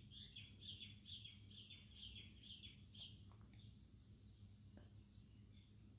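Near silence with faint bird chirping: short chirps about twice a second, then a thin, slightly rising high note. A low steady hum lies beneath, with a couple of faint clicks.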